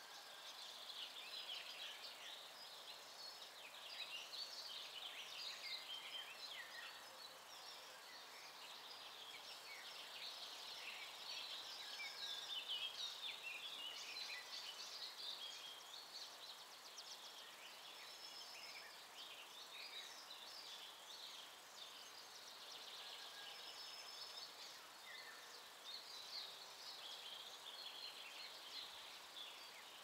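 Many songbirds singing at once: a faint, dense chorus of overlapping high chirps and trills.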